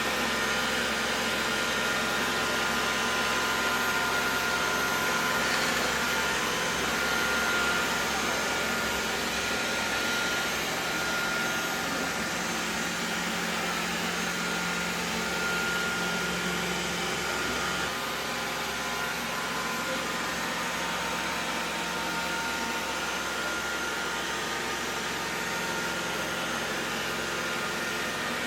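Xiaomi Mi Robot Vacuum-Mop 2 Ultra robot vacuum running while cleaning: a steady whir from its suction fan with a faint high whine.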